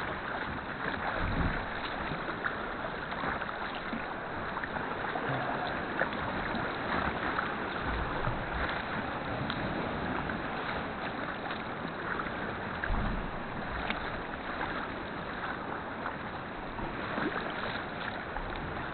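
Sea kayak paddling: water splashing and dripping off the paddle and lapping at the hull, a steady wash with many small splashes. A few low thumps come through, about a second in, around eight seconds and around thirteen seconds.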